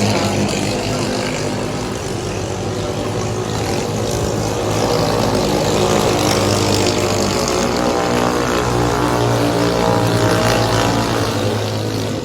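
A 7.5 hp clone small single-cylinder four-stroke engine running. It eases off about two seconds in, picks back up and holds steady, then eases again near the end.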